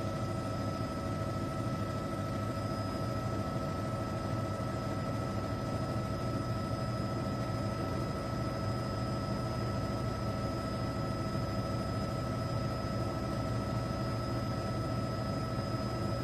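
Helicopter cabin noise: a steady engine and rotor drone with several constant whining tones over it.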